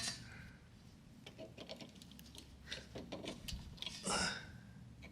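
Faint scattered clicks and light rustling of small objects being handled, with a short louder scrape-like noise about four seconds in.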